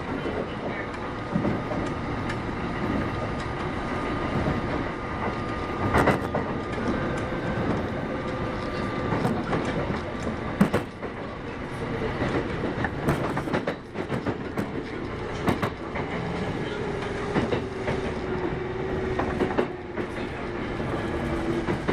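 Kintetsu 8810 series electric train running, heard from inside the car: steady rolling noise with a faint whine, and wheels clicking over rail joints every couple of seconds.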